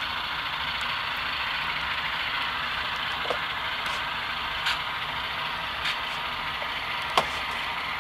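Tsunami sound decoder in an Atlas C424 model locomotive playing an idling diesel prime mover through the model's small speaker, a steady, thin hum without bass. A few short clicks come between about three and seven seconds in.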